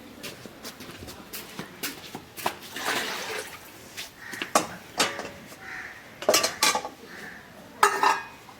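Metal dishes, pots and utensils clinking and knocking against each other at an irregular pace, with a few louder clinks that ring briefly near the end.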